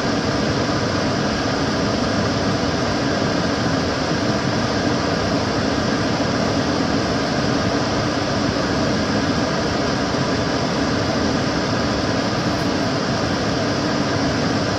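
Kitchen cooker hood's extractor fan running steadily: an even rushing of air with a low hum and a few faint steady tones.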